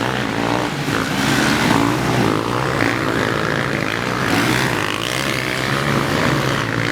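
Several motocross dirt bikes racing, their engines revving up and down over one another.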